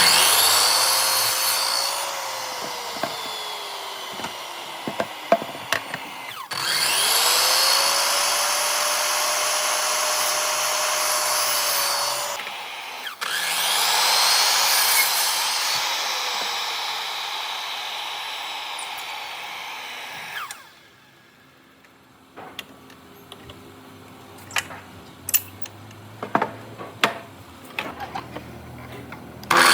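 A handheld electric power tool cutting wood in three long passes. Each pass starts with the motor spinning up, its whine sags in pitch under the load of the cut, and it winds down when the trigger is let go. Then a series of light wooden knocks and clatters as pieces are handled.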